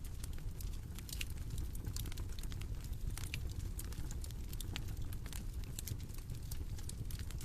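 Bonfire crackling: a steady low rumble of burning with irregular small pops and snaps, a couple of louder ones just before and just after.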